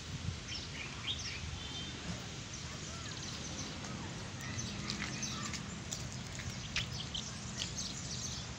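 Small birds chirping and twittering in short, scattered calls, over a steady low background rumble.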